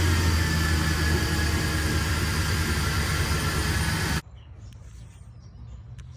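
Rebuilt car engine running steadily, cut off abruptly about four seconds in, leaving a much quieter background.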